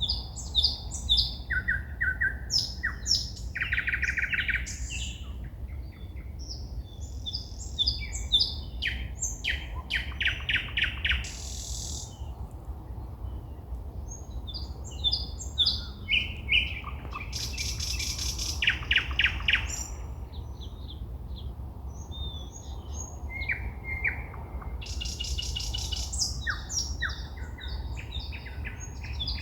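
A songbird singing at night: a varied song of loud whistled notes, fast repeated notes and rattling trills, delivered in phrases a few seconds long with short pauses between. A steady low rumble runs underneath.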